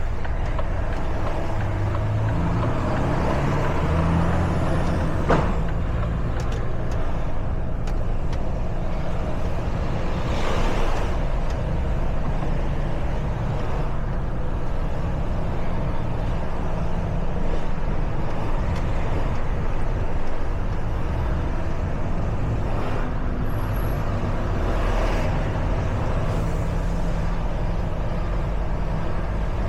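Truck's diesel engine running while the truck is driven, its pitch shifting as speed changes, with a sharp click about five seconds in and short air-brake hisses about ten seconds in and again near the end.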